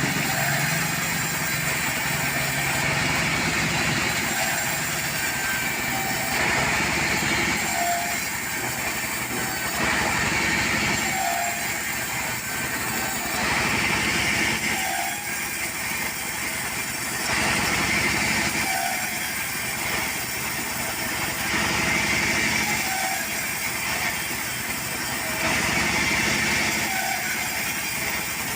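Portable sawmill running: its engine drives the saw through timber, the sound swelling and easing in a regular cycle every three to four seconds.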